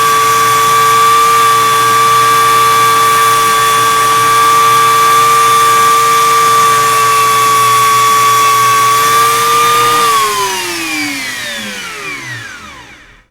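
Small electric rotary tool running steadily at high speed with a high-pitched whine while polishing an AirPods Pro case with compound; it is switched off about ten seconds in and its whine falls in pitch as it spins down to a stop.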